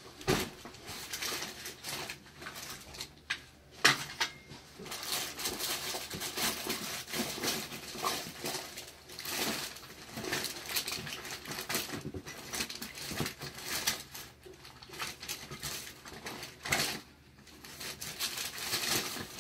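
Hands handling objects: irregular rustling and crackling with a few sharp knocks, the loudest about four seconds in.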